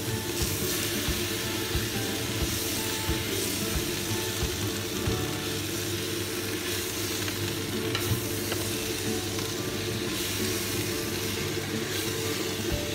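Water spinach sizzling in hot oil in a wok as it is stir-fried and tossed with a spatula, being stirred to combine with shrimp paste. A steady hum runs underneath.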